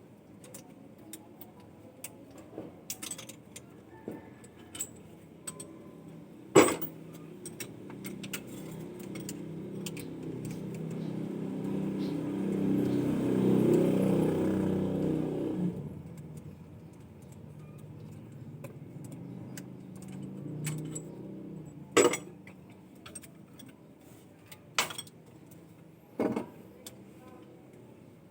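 An engine slowly rising in speed for several seconds, then dropping back abruptly. Sharp metallic clinks and knocks sound a few times, the loudest about six seconds in and again near the end.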